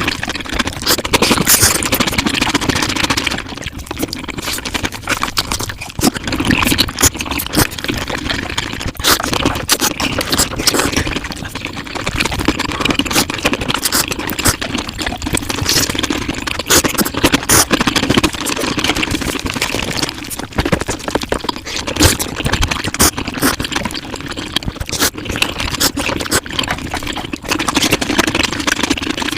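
Mukbang eating sounds sped up five times: chewing, smacking and crunching packed into a rapid, continuous stream of clicks and wet smacks.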